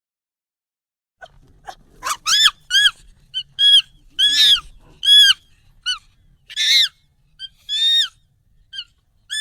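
Monkey calls sped up and raised in pitch: after about a second of silence, a rapid string of short, high calls, each rising then falling in pitch, about two a second.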